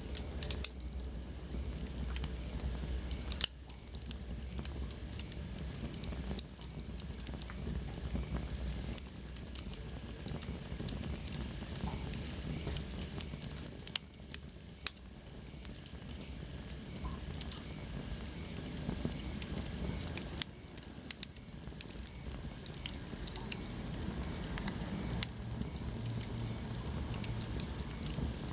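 Wood fire burning in a fireplace, crackling steadily with frequent sharp pops and snaps over a soft hiss.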